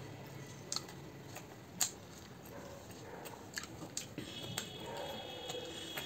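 Close-up eating noises: chewing, lip smacks and sharp wet mouth clicks as momos are bitten and chewed, with a faint thin high tone joining about four seconds in.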